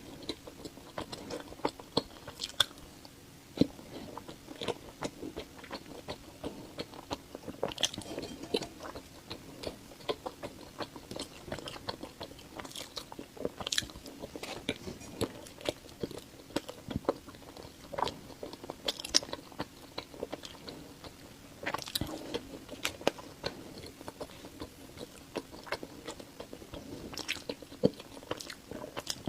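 Close-miked eating of soft filled whole-wheat purple sweet potato cakes: biting and chewing, with frequent sharp wet mouth clicks and smacks at an irregular pace.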